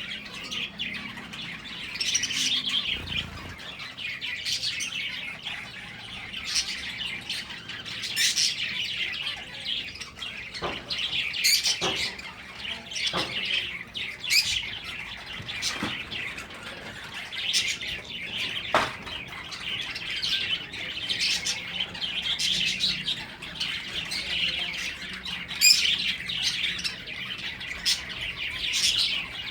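Pet finches chirping and chattering continuously in quick, overlapping high calls, with occasional sharp clicks.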